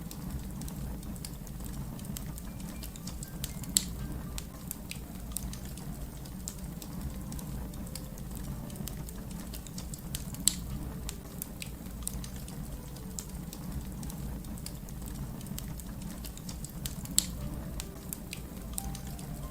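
Fire crackling: a steady low rumble with irregular small crackles and pops, and three sharper, louder pops spread through it.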